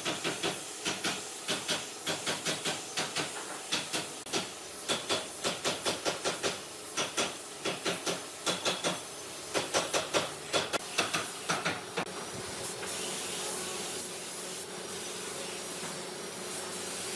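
Woodworking shop sounds: a quick run of short scraping or knocking strokes, about two to three a second, over a hiss. About twelve seconds in, this gives way to a steady hiss with a low hum, like a power tool running.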